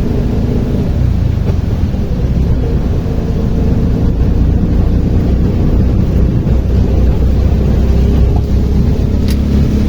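Tuktuk (auto-rickshaw) engine running steadily as it drives along, heard from inside the vehicle together with road noise.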